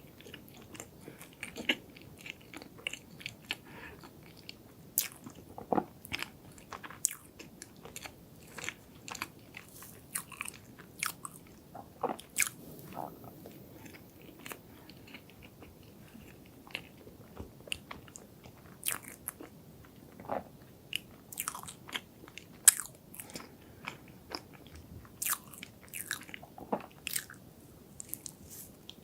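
Close-miked biting and chewing of chocolate desserts, with many irregular, sharp, crisp crunches and wet mouth sounds.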